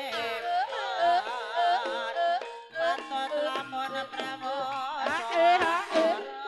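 Live ebeg gamelan music. A wavering, heavily ornamented lead melody runs over sustained metallophone tones and regular drum strokes.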